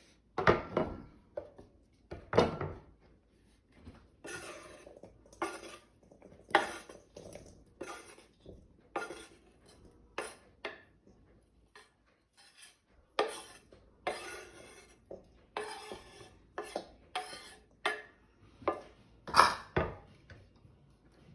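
A utensil scraping and clinking against a bowl and cutting board as chopped pineapple-salsa ingredients are scooped into the bowl: irregular short clatters and scrapes, one or two a second.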